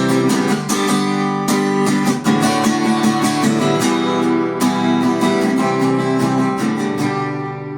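Acoustic guitar strummed in a steady rhythm, chords ringing, without singing: the instrumental close of a song, starting to die down near the end.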